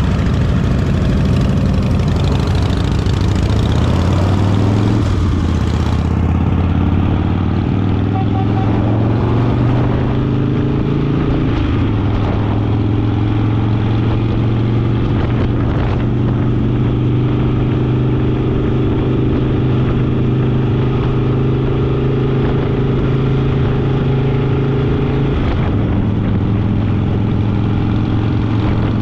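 Harley-Davidson Fat Boy V-twin engine under way on the road, rising in pitch as it pulls through the gears, then holding a steady cruise. There is a short break in the engine note near the end, under a constant rush of road noise.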